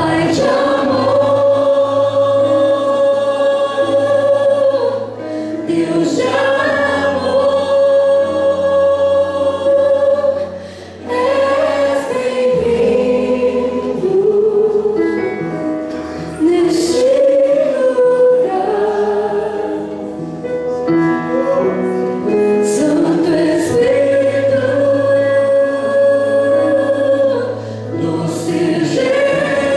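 Gospel worship music: a choir singing long held notes over sustained bass notes.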